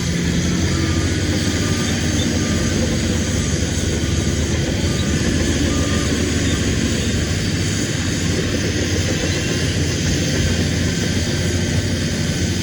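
Heavy diesel engine of earthmoving machinery running steadily under load, a continuous low drone.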